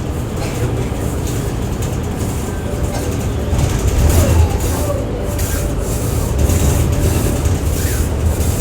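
Inside a transit bus on the move: a steady low rumble of engine and road noise, with light rattles and clicks from the cabin. The rumble swells briefly about four seconds in.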